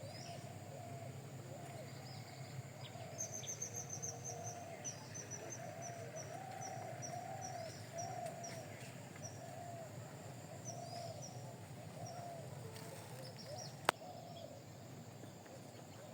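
Birds calling: a run of quick, short high chirps repeated several times a second for about six seconds, over steady lower, repeated arching calls. A single sharp click sounds near the end.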